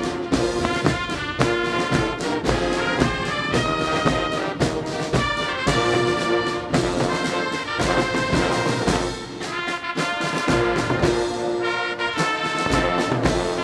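Brass band playing a march: a brass melody over a steady drum beat.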